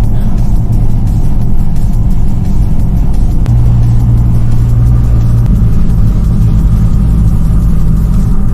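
Car engine running: a steady, loud low drone whose note shifts about three and a half seconds in.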